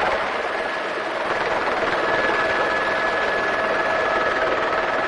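Helicopter running as it lifts off: a steady rush of rotor and engine noise with a thin, steady whine riding over it.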